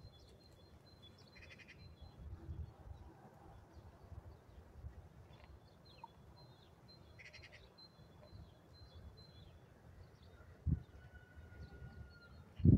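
Quiet outdoor ambience with small birds chirping and trilling now and then, and a single soft thump near the end.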